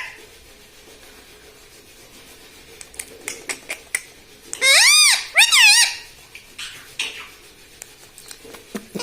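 Indian ringneck parrot giving two high, pitch-bending calls in quick succession about halfway through, its mimicked "mummy". Before them comes a run of small sharp clicks.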